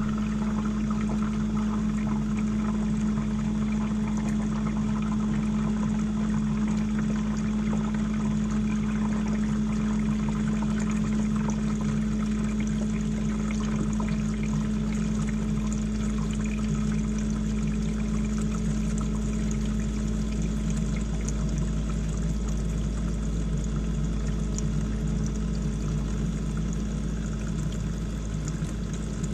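GE dishwasher running, with water rushing steadily inside the tub over a constant motor hum.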